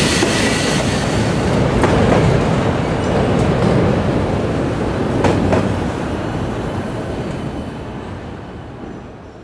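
Freight train cars rolling past on steel wheels, clattering over the rails with a couple of sharp knocks. The noise fades away as the last cars go by.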